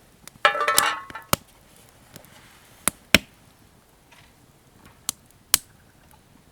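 Chopping with a blade: a short clattering rattle with some metallic ringing about half a second in, then about five separate sharp chops, a second or more apart.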